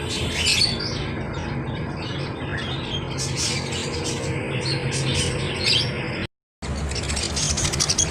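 Cage birds chirping and squawking: many short, overlapping calls from young parrots such as ringnecks, cockatiels and budgies. The sound cuts out for a moment about six seconds in, then resumes.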